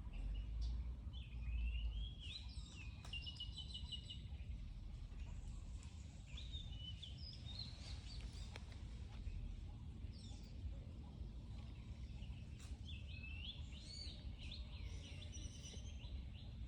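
Runs of quick, high-pitched chirping calls from small animals, coming in three bouts, over a steady low rumble.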